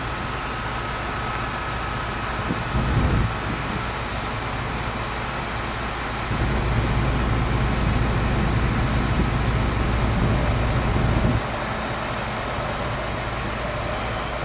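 Crane engine running steadily, revving up briefly about three seconds in and again for about five seconds from the middle as the boom hoists the load.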